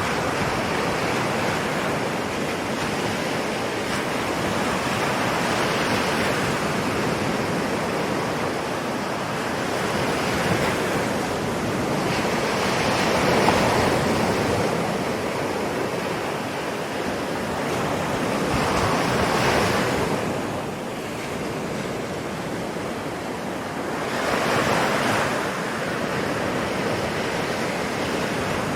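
Ocean waves breaking and washing onto a shore, a continuous rush that swells every five to seven seconds.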